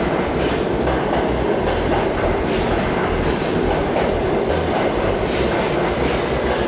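New York City subway train moving through an underground station: a steady, loud rumble with repeated wheel clicks over the rail joints.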